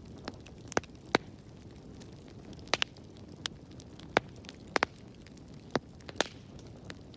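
Wood fire crackling in a fireplace: irregular sharp pops and snaps, about a dozen, over a low steady rush of the flames.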